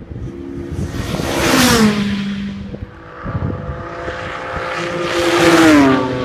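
Two race cars passing at speed, one after the other, each engine note swelling and dropping in pitch as it goes by.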